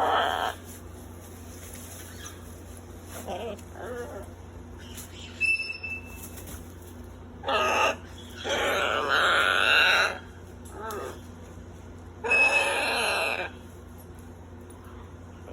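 Baby parrots giving a series of raspy squawks, the longest lasting about two seconds just past the middle and another about a second long near the end.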